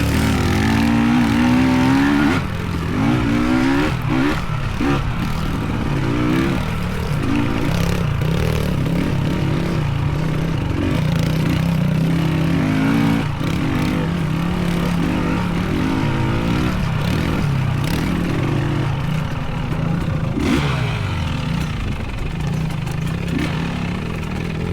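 Dirt bike engine being ridden hard on a trail, its revs rising and falling again and again as the throttle is opened and rolled off, over a steady low running drone.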